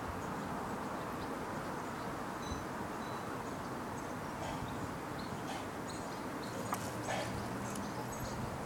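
Steady outdoor background noise with faint, short high chirps scattered through it, and a few soft clicks about seven seconds in.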